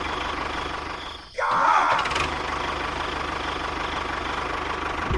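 Tractor engine running steadily at idle, with a brief drop about a second in followed by a short, louder pitched sound, then the steady hum again.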